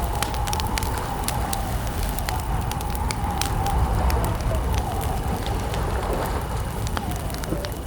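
Wood campfire crackling: irregular sharp pops and snaps over a steady low rumble. A faint, long, wavering call runs through it.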